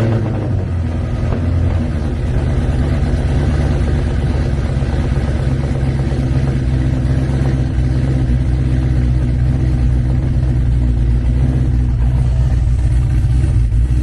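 Cadillac V engine idling loud and steady through its aftermarket exhaust, seconds after catching on a cold start in freezing weather; it cranked slowly before catching, a sign of a weak battery.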